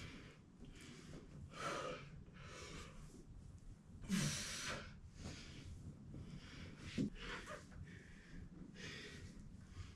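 Faint breathing: a string of irregular breathy exhales and sniffs, about one a second, the strongest a little past the four-second mark and a short sharp one about seven seconds in.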